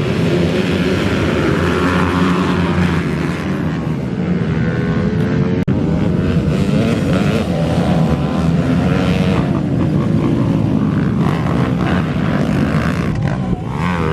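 Several minibike engines racing together, their notes rising and falling as the riders rev, shift and back off.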